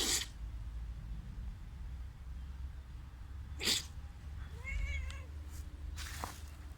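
A cat meows once, briefly, a little past the middle, between three short, sharp puffs of breath like sneezes or hisses. A steady low rumble runs underneath.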